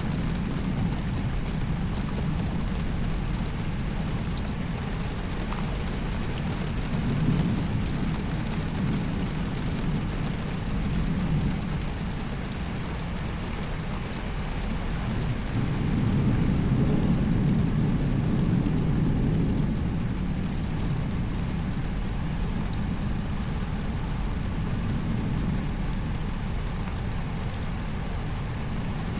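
Rain falling steadily, lighter now that the downpour has eased. A low rumble under it swells briefly about a quarter of the way in, and again for several seconds around the middle.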